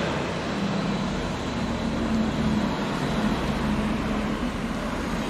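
Mercedes-Benz SLR McLaren's supercharged V8 running as the car drives by, a steady low engine drone over street traffic noise.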